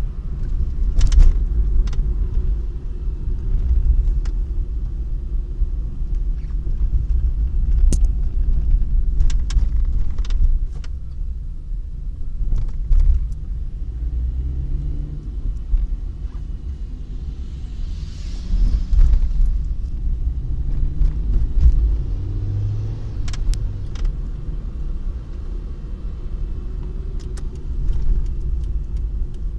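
Car running with a heavy low rumble, with irregular sharp clicks and knocks scattered through it: the abnormal noise the car is being recorded for.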